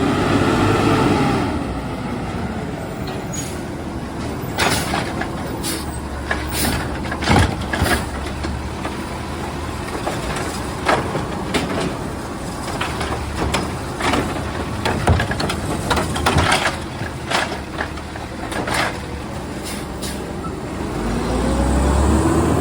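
Garbage truck working: its engine revs up and back down at the start and revs again near the end, with a run of sharp clanks and bangs in between.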